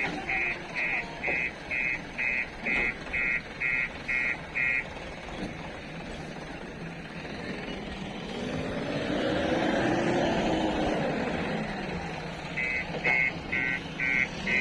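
JCB 3DX backhoe loader's reversing alarm beeping about twice a second over its running diesel engine, stopping about five seconds in. The engine then revs up and back down, and the beeping starts again near the end.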